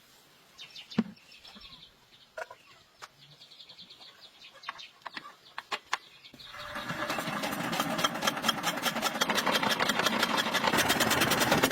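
A few scattered clicks and knocks, then about six seconds in a small motorbike engine comes in with a rapid, even beat and grows louder.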